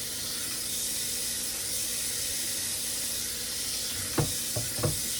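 Kitchen faucet running water steadily into the sink, with a couple of short knocks near the end.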